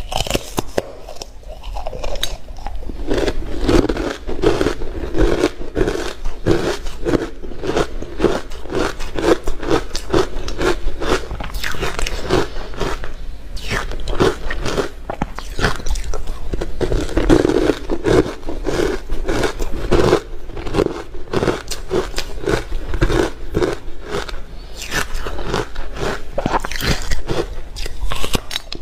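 Ice being bitten and chewed, a dense, continuous run of irregular crunches and crackles.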